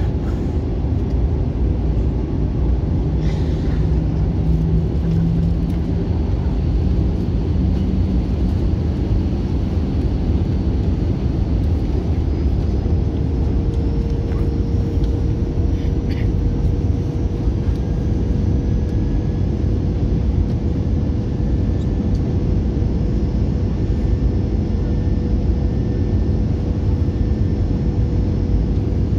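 Steady cabin noise inside an Airbus A321-200 in flight: a deep, even rumble of jet engines and airflow, with a faint steady hum that comes in just before halfway.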